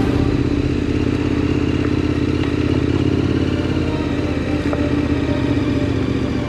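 Motorcycle engine running at a steady, even pitch under way, with a couple of faint clicks.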